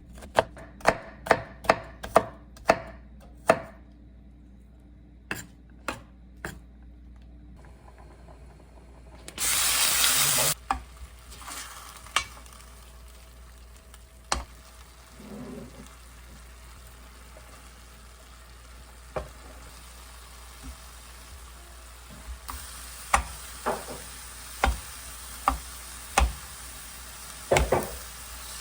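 Kitchen cooking sounds. A knife chops quickly on a cutting board for the first few seconds. About nine seconds in there is a loud hiss lasting about a second, then frying with a steady sizzle and a utensil clicking against the pan every so often, more often near the end.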